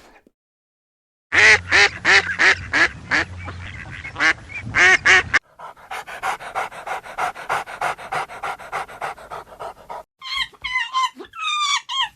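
Dogs: a quick series of high-pitched yelps lasting about four seconds, then a fast, even run of short pulses like panting, then a few thin whines near the end.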